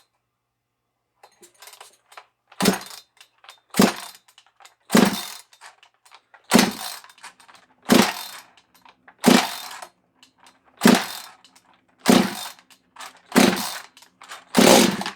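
86cc two-stroke chainsaw, an Echo CS600 fitted with a big-bore Stihl 460 cylinder, being pull-started. There are about ten hard pulls on the recoil starter, one every second and a half or so, and the engine turns over without catching after standing unused a long time.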